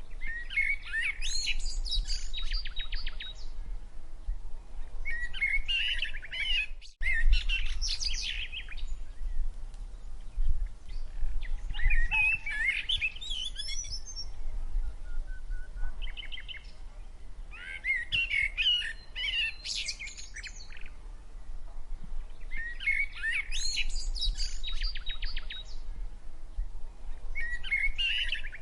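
A songbird singing the same song over and over, roughly every five to six seconds. Each song is a quick warble that ends in a fast, rattling trill. A low steady outdoor rumble runs underneath.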